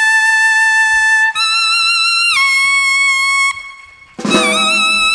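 Solo melody instrument playing long held notes: a steady note, then a higher one with vibrato that slides down and holds. About four seconds in, a fuller, richer sound with lower notes joins.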